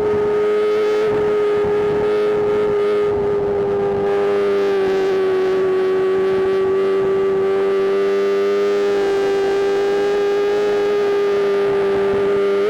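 BMW M1000RR's inline-four engine running at high, nearly constant revs while riding, a steady high-pitched wail that sags slightly in pitch through the middle and recovers near the end.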